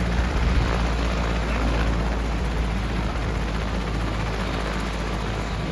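Medevac helicopter running on the ground just after touchdown: a steady, loud engine-and-rotor noise with a strong low hum, easing slightly.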